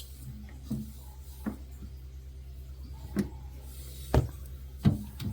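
Refrigerator shelves being wiped with a damp towel: about six short knocks of hand and towel against the shelves, the loudest two near the end, over a steady low hum.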